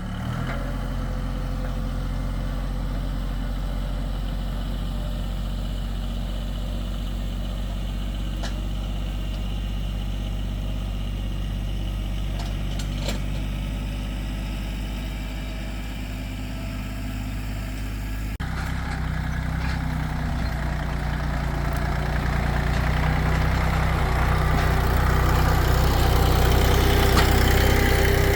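Tractor engine running steadily. About two-thirds of the way in the sound changes abruptly, and the engine grows louder toward the end.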